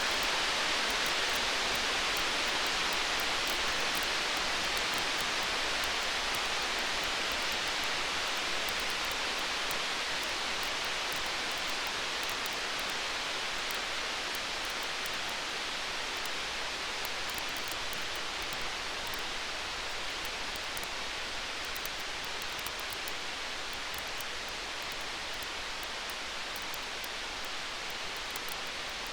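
Wood fire crackling: many small, faint pops over a steady rushing hiss that slowly eases a little in level, the pops coming thicker in the second half.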